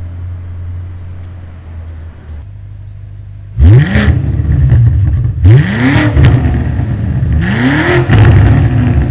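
BMW M5 twin-turbo V8 with a DCE catback exhaust, X-pipe and OPF delete, rumbling low at first. Then, from a little past halfway, it is revved hard: three sharp climbs in pitch about two seconds apart.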